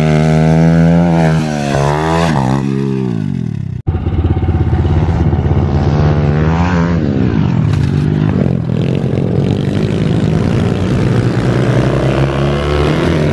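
Minibike engine running and revving up and down, its pitch rising and falling several times, with a sudden break in the sound about four seconds in.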